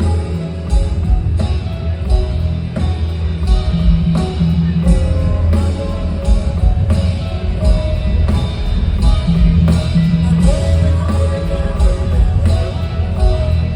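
Live band playing music with heavy bass and a steady drum beat of about two hits a second, with melodic guitar or vocal lines over it.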